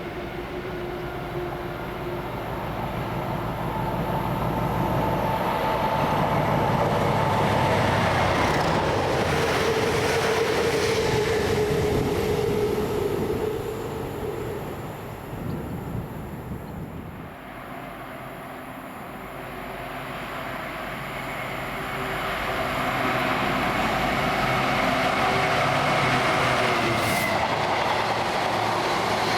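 A train running through at line speed, its rumble building to a peak, easing off about halfway through, then building again near the end, with steady mechanical tones over the rumble.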